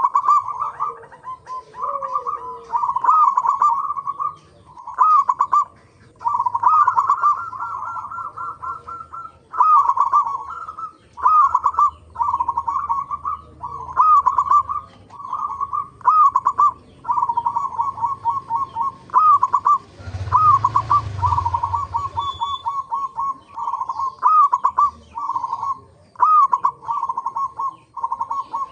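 Zebra dove (perkutut) cooing over and over: quick runs of short notes, each phrase with a looping rise-and-fall note, repeated every second or two. About twenty seconds in, a brief low rumble with a hiss passes under the calls.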